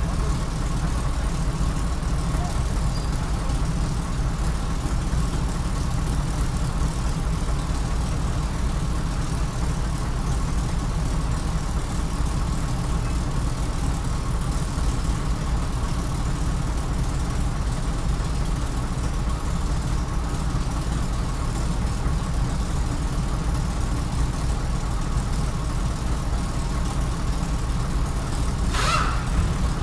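Mercedes truck's six-cylinder diesel engine idling steadily, with cylinder number 4 not working according to the diagnostic scan.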